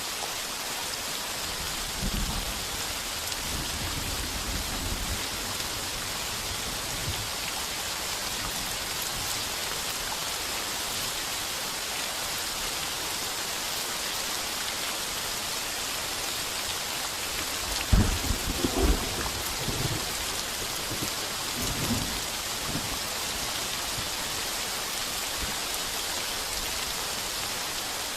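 Heavy rain pouring steadily on a tin roof, with thunder: a low rumble about two seconds in, a sudden louder thunderclap and rumble around eighteen seconds in, and a softer rumble a few seconds later.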